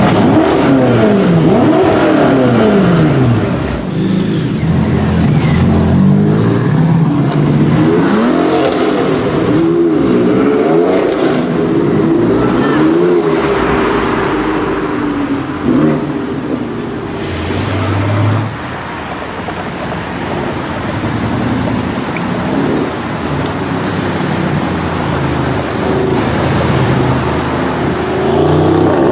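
Performance car engine revved over and over, its pitch sweeping up and down several times, then running lower and steadier for the second half.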